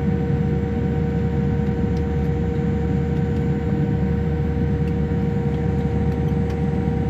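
Steady cabin noise inside a Boeing 787-8 taxiing after landing: a low rumble with a steady two-note hum over it.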